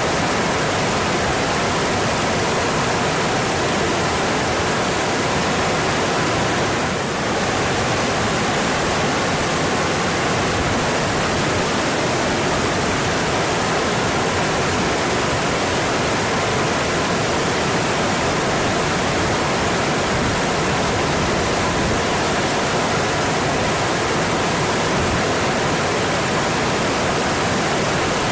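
Mountain stream flowing: a steady, even rush of water, with a slight brief dip in loudness about seven seconds in.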